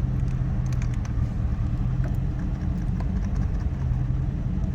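Steady low rumble inside the cabin of a 1986 Lincoln Town Car, with a low hum that fades out about halfway through and returns near the end, and a few faint clicks.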